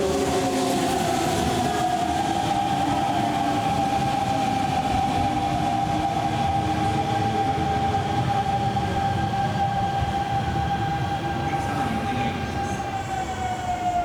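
A Kintetsu Nara Line electric train running past at the platform with a steady whine over the rumble of its wheels. The whine sags slightly in pitch near the end.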